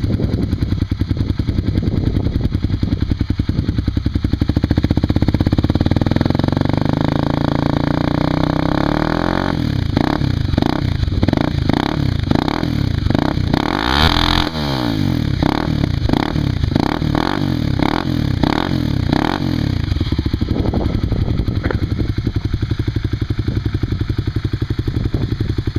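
Warm 2010 Kawasaki KLX250SF single-cylinder four-stroke, with an FMF PowerCore 4 slip-on exhaust, running pretty loud. It idles at first, then from about ten seconds in the throttle is blipped hard again and again, with choppy revving against the rev limiter and one big rise and fall in the middle. It settles back to idle near the end.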